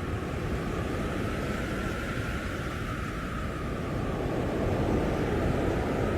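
Blizzard wind blowing hard: a steady rushing with a faint high whistle, swelling in a stronger gust about four and a half seconds in.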